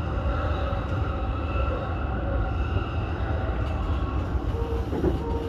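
Keihin-Tohoku Line E233-series electric commuter train running at speed, heard from inside the front car: a steady low rumble with faint steady whining tones above it.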